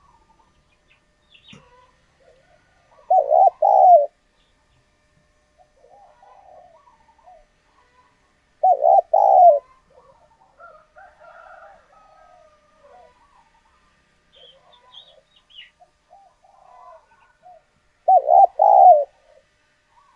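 Spotted dove cooing: three short phrases of a few quick, low coos, several seconds apart, with fainter calls and chirps of other birds between.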